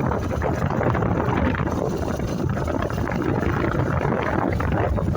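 Wind rushing and buffeting over the microphone, with a motorcycle engine running underneath, while the bike is ridden along the road.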